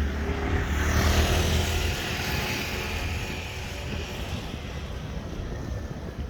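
A motor vehicle driving past: its engine and tyre noise swells to a peak about a second in, then fades, over wind noise on the microphone.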